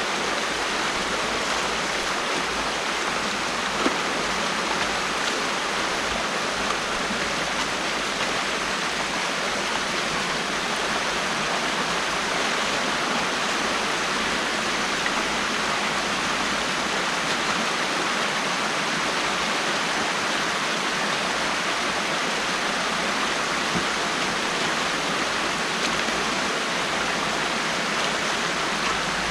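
Water rushing steadily through an opening in a beaver dam, a continuous even stream-and-waterfall sound.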